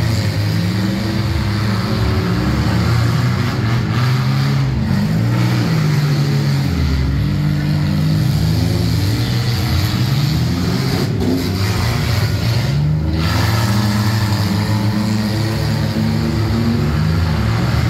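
Several enduro derby cars' engines running hard around a dirt track, more than one engine note rising and falling as the cars accelerate and back off.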